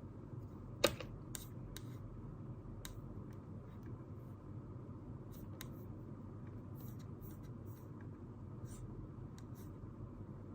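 Small desk-work handling sounds over a steady low room hum: one sharp click about a second in, then scattered light ticks and taps.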